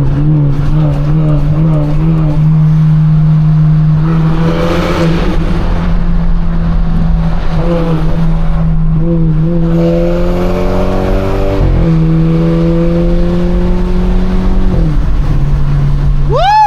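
Straight-piped, Stage 2 tuned BMW 428i exhaust droning at a steady cruise. About nine and a half seconds in, the engine accelerates and its pitch rises; it dips briefly at a gear change about two seconds later, climbs again, then lifts off near the end.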